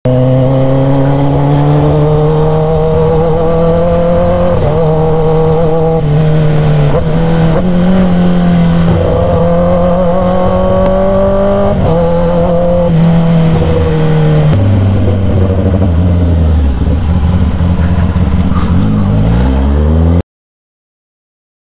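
Kawasaki ZX-10R inline-four with an aftermarket SC Project exhaust running loud under way, its engine note holding for stretches and then shifting up and down with the throttle, rising in a rev just before the sound cuts out abruptly near the end.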